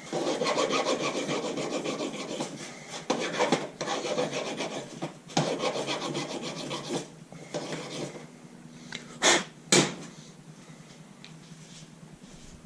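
Hand-tool work during an engine teardown: a rapid, rasping scrape for about seven seconds, then two sharp clacks about half a second apart.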